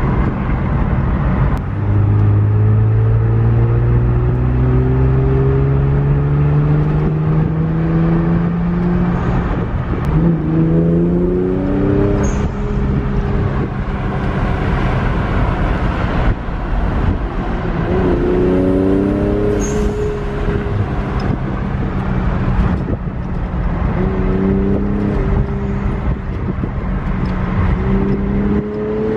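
Twin-turbo Infiniti engine heard from inside the cabin while driving, over steady road noise. Its pitch climbs slowly under light acceleration for several seconds, then shifts about ten seconds in and again about nineteen seconds in.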